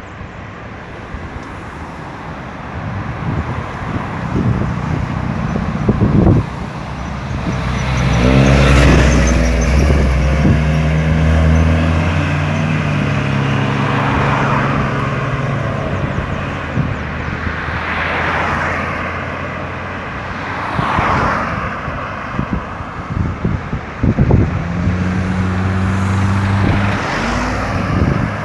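Road traffic passing on a busy highway: cars going by one after another, with a heavier vehicle's engine rumbling past about a third of the way in and another near the end.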